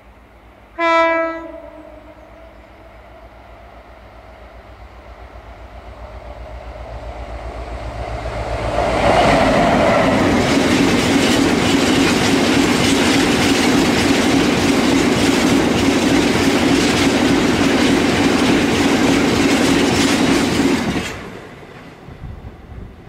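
Class 60 diesel locomotive sounding a short single horn blast about a second in, then its engine growing louder as it approaches and passes. A long rake of box wagons follows, their wheels clattering over the rail joints for about ten seconds, and the sound drops away suddenly as the last wagon passes.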